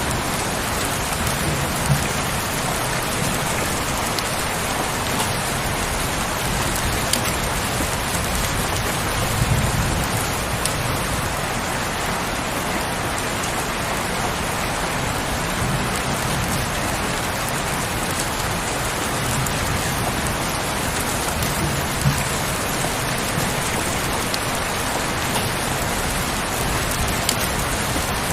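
Heavy rain falling steadily, an even wash of drops with occasional louder, sharper drop hits.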